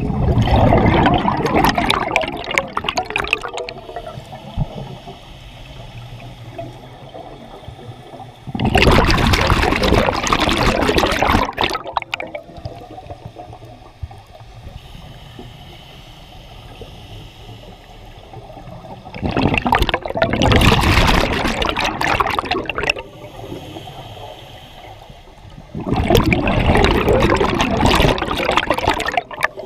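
Scuba diver's exhaled bubbles rushing and gurgling out of a regulator underwater, four long bursts a few seconds apart with quieter gaps between breaths.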